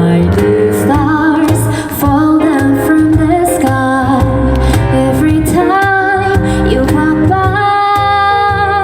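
A woman singing a melody with vibrato over band accompaniment with a steady bass line.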